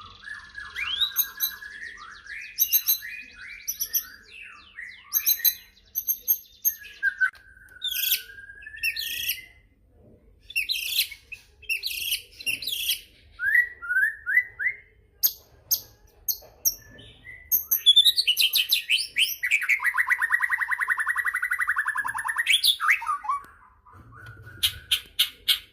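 White-rumped shama singing a varied song of loud whistles, pitch slides, quick trills and high chips. Around two-thirds of the way through comes a long, rapid, buzzy rattle of about five seconds.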